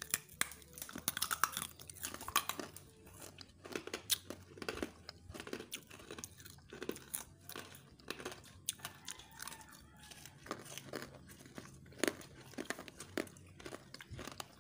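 Honeycomb toffee being bitten and chewed: a close, irregular crunching and crackling of the brittle, aerated sugar candy.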